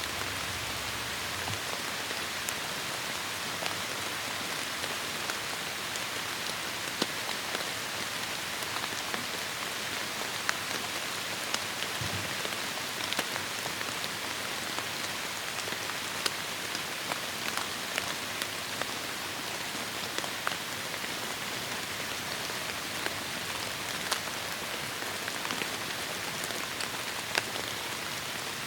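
Heavy rain falling on forest foliage: a steady hiss with many distinct drops ticking close by.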